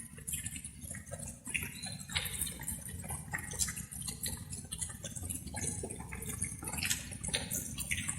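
Light rain with drops falling and dripping irregularly, over a steady low rumble.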